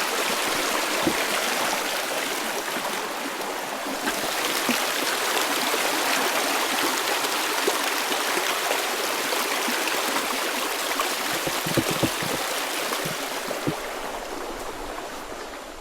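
Small forest creek running over rocks: a steady rush and babble of flowing water that fades out at the very end.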